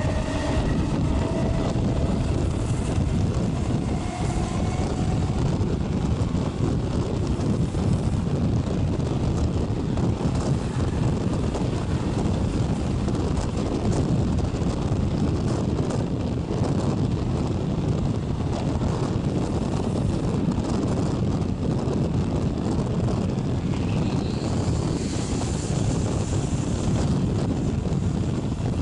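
Steady rushing of a moving regional train heard from its open window: wind blowing across the microphone over the low rumble of the train on the track. A higher hiss joins for a few seconds near the end.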